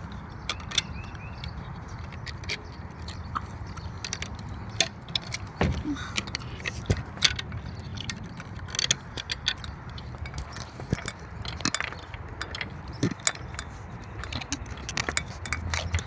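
Metal clicks, clinks and rattles of a garage door lock being worked by hand, coming irregularly and often in quick runs.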